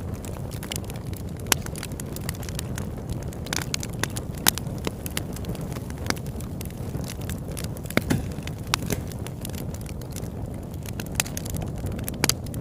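Campfire burning, the wood crackling with many sharp, irregular pops and snaps over a steady low rush of the flames.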